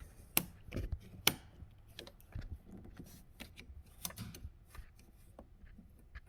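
Hands and a tool working at a plastic quick-connect clip on a car's fuel line: scattered light clicks and scrapes, with two sharper clicks about half a second and a second and a quarter in.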